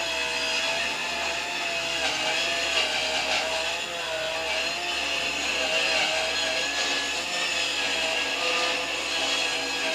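Power saw running steadily through wood, with an even, slightly wavering motor pitch.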